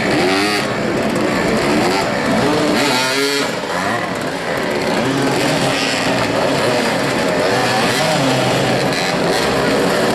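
Several motoball motorcycles running at once, their engines revving up and down over one another in overlapping rising and falling pitches.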